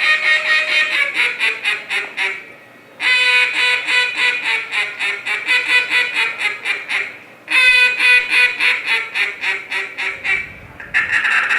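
Mallard duck call blown in a competition routine: three long runs of rapid, evenly paced quacks, each stepping down in pitch, with brief breaks between them.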